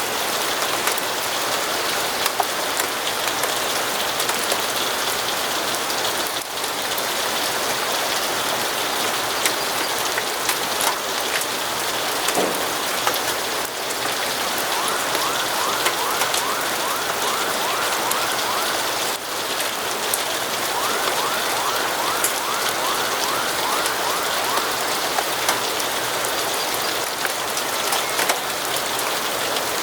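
Steady rain falling against windows, a dense even hiss with scattered drop ticks. In the second half come two runs of quick, repeated short chirps.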